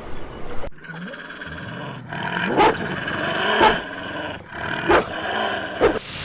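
An animal calling: four loud calls about a second apart, beginning a little under a second in.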